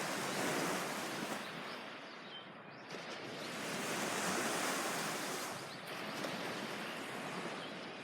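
Surf washing onto a beach: a steady rush of waves that swells and ebbs, with two stronger surges, one at the start and one around the middle.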